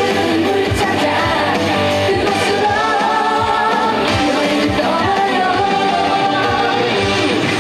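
A woman singing a trot song live over loud band backing, with a steady drum beat.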